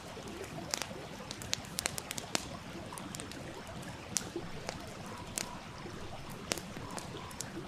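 Wood fire crackling with sharp, irregular pops over the steady rush of a stream.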